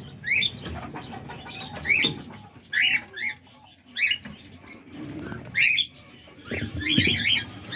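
Small parrots in an aviary giving short, high, rising chirps, scattered irregularly and a few close together. There are a few low knocks near the end.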